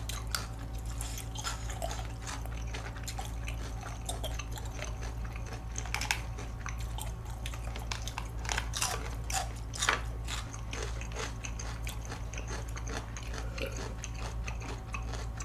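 Close-miked eating: chewing and biting mouth sounds with scattered sharp clicks, over a steady low hum.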